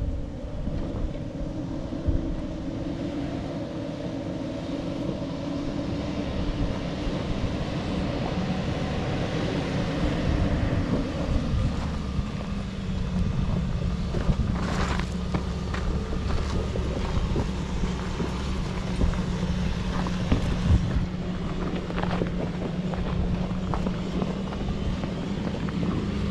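Four-wheel drive's engine running under load as it crawls along a steep, slippery off-road track; its pitch drops about twelve seconds in and then holds steady, with a few short knocks.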